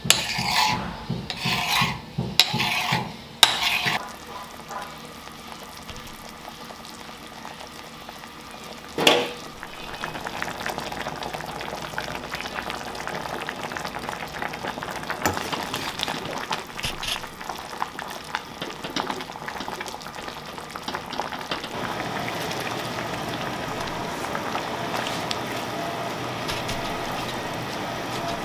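Food frying in a pan while it is stirred: utensil strokes scrape the pan at first, then an even sizzle that gets louder about two-thirds of the way through, with one sharp knock near the start.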